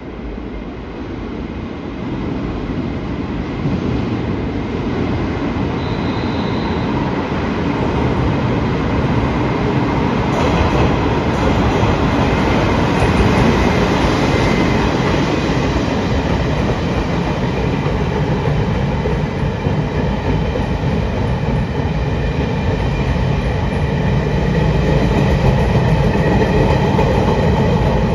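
Taiwan Railways train pulling into the station, its wheel and running noise building steadily as it comes alongside, then holding at a loud level with faint steady whining tones above it.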